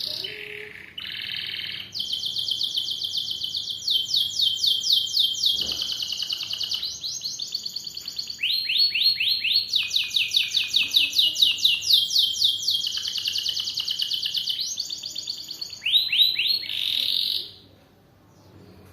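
Domestic canary singing a long, continuous song of rapid high trills, each phrase a run of repeated notes at its own speed, the song breaking off near the end.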